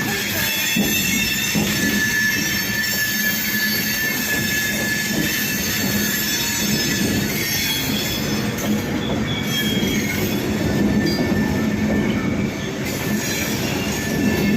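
Suburban EMU local train running, its wheels squealing on the rails over the steady rumble and rattle of the coaches.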